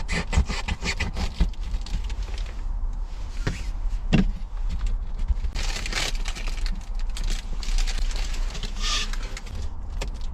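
A metal flue pipe being worked through a hole in a screen mesh by hand: irregular clicks, rattles and scraping rustles over a low rumble.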